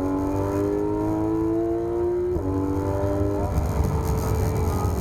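Porsche 991 GT3 RS's 4.0-litre naturally aspirated flat-six pulling hard under acceleration, its note rising through the revs with one quick upshift about two and a half seconds in. About a second later the rising note gives way to a flatter, rougher engine sound as the driver comes off full throttle.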